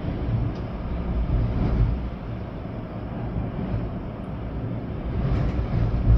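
Storm wind gusting with rain, a deep rumbling rush that swells and eases, growing stronger near the end.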